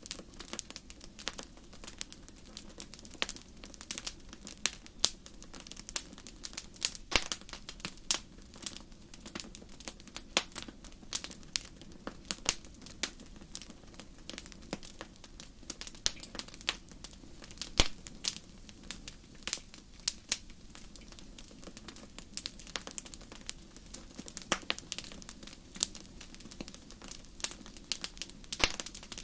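Wood fire crackling in a fireplace: a steady low rumble of the flames with irregular sharp pops and snaps, a few much louder than the rest, the loudest about eighteen seconds in.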